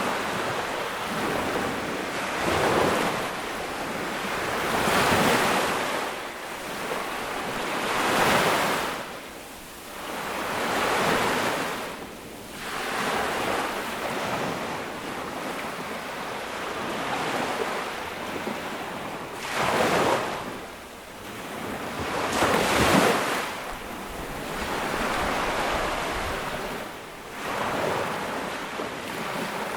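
Ocean waves breaking and washing up on a sandy beach, each wave swelling and fading every few seconds, with some wind on the microphone.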